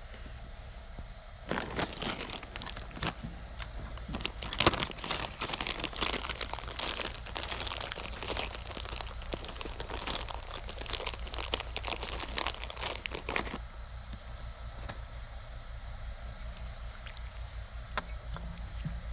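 Crinkling and crunching handling noise, dense for about twelve seconds and then sparser, over a steady low hum.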